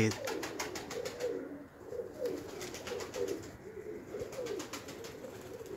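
Domestic pigeons cooing, one short wavering coo after another.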